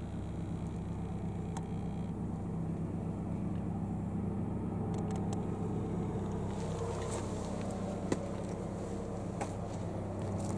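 Steady low rumble of a running vehicle, with faint clicks and crackles over it in the second half.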